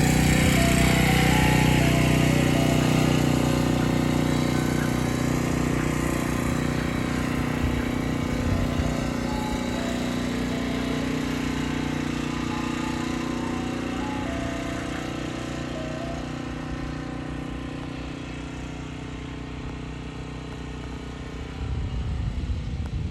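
Ice cream truck's engine running and slowly fading as the truck pulls away, with faint notes of its jingle playing above it.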